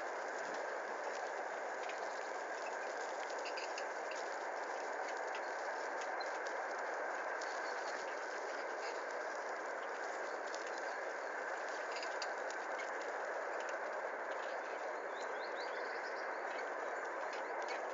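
Bicycle rolling along a forest dirt track: a steady rolling noise with light rattling and many small ticks.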